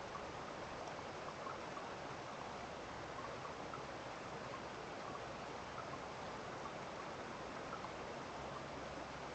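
Running water, steady and even like a small stream after rain, with faint scattered plinks throughout.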